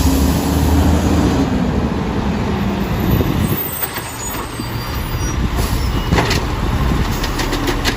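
Heavy truck engine running with a steady low rumble. A whine rises and falls over the first few seconds, and a run of rapid mechanical clattering comes near the end.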